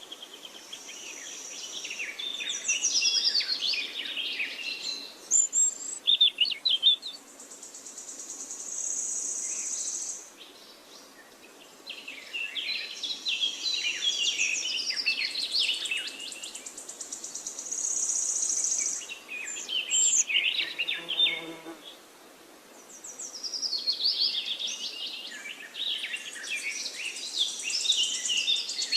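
Wild songbirds singing in repeated bursts of rapid chirps and trills. Between the phrases comes a high-pitched, steady buzzing trill that lasts a few seconds each time.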